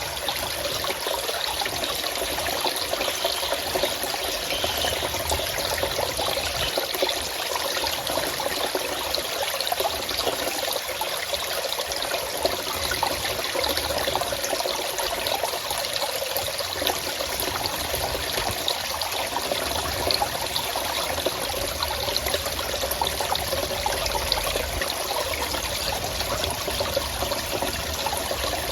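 Forest stream trickling and splashing steadily.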